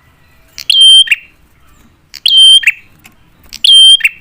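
A prinia (prenjak) calling three times, about one and a half seconds apart. Each call is a short, loud, buzzy note held high and then dropping at the end. It is a male's call of the kind used to lure other prinias into answering.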